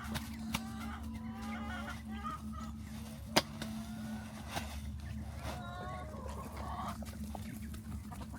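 Farm poultry giving a run of short calls over a steady low hum, with one sharp click a little past three seconds in.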